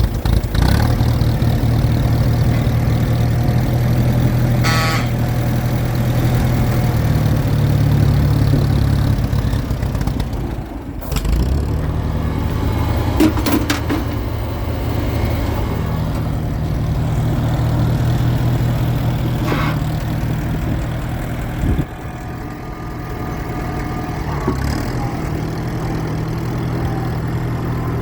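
1952 Cockshutt 30 tractor engine running steadily, its speed shifting a few times, with a brief dip about eleven seconds in and another about twenty-two seconds in.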